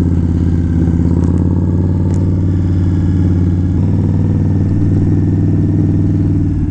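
Indian Scout V-twin motorcycle engine running at a steady cruising speed, with an even, unchanging tone.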